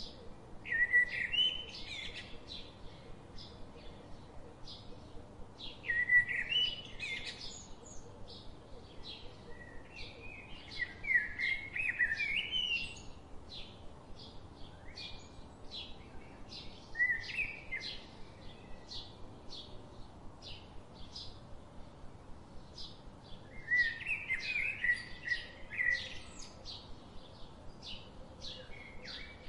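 Birds singing: short warbling phrases every few seconds, between quick high chirps about twice a second.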